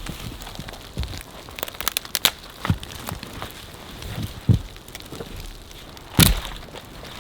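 A steady patter like precipitation falling on snow and clothing. Over it come several short, sharp cracks and thumps, the loudest about six seconds in.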